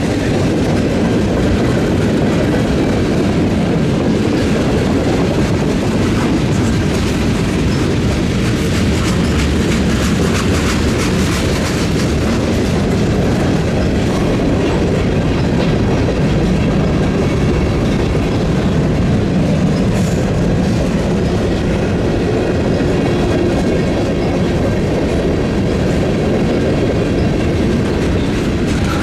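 Freight train passing close by: a steady rumble of cars rolling over the rails, with the clickety-clack of wheels on the track.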